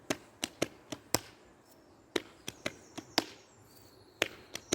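Body percussion played by hand: sharp slaps and claps in a repeating rhythm, one short phrase of hits about every two seconds.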